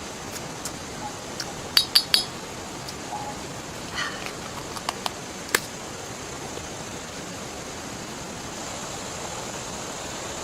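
Steady rush of rain and river water, with a quick run of three sharp clinks of metal or glass camp gear about two seconds in, and a few more clinks and clicks a couple of seconds later.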